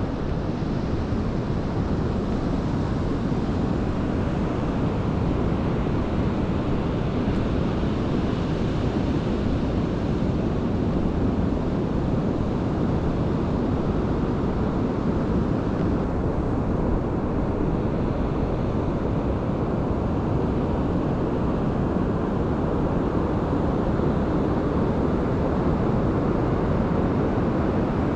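Steady low roar of Pacific Ocean surf, mixed with wind buffeting the microphone.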